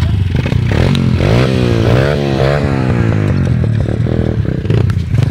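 Motorcycle engine running, revved up and down several times in quick succession between about one and three and a half seconds in, then settling back to a steady idle.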